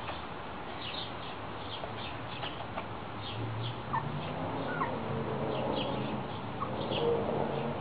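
Small birds chirping, a string of short high falling notes repeated every fraction of a second. A low steady drone joins underneath from about halfway through.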